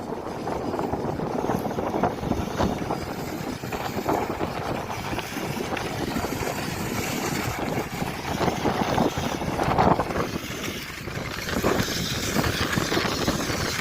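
Radio-controlled monster trucks driving over rough ground: a steady noisy rumble with many small scattered knocks.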